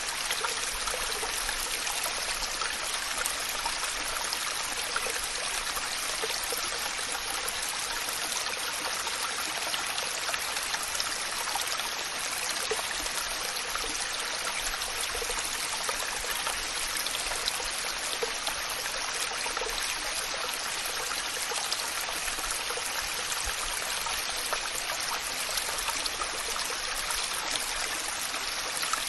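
Waterfall: water splashing and rushing in a steady, even hiss with no let-up.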